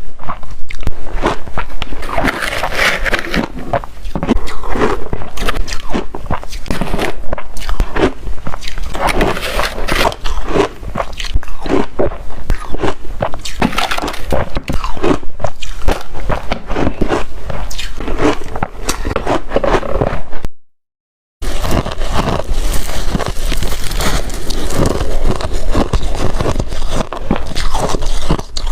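Close-up crunching of shaved ice being bitten and chewed, a dense run of crisp crunches. The sound drops out completely for under a second about 21 seconds in.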